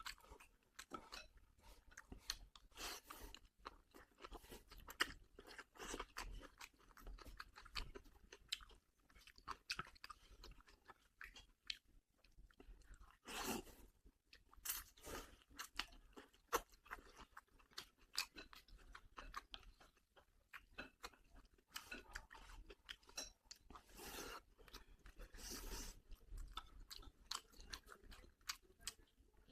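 A person chewing food, with irregular soft crunches and small mouth clicks.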